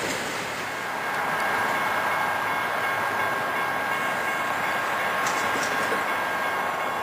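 Train running, a steady even noise of wheels and rails; from about a second in, a few steady high tones sound over it.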